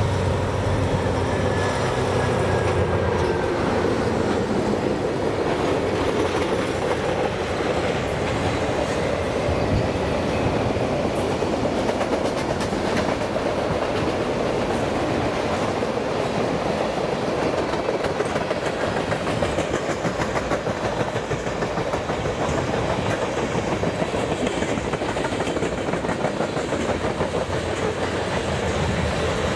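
CN freight train rolling past, its cars' steel wheels clicking over the rail joints in a steady run. A low engine drone is heard in the first few seconds, then fades.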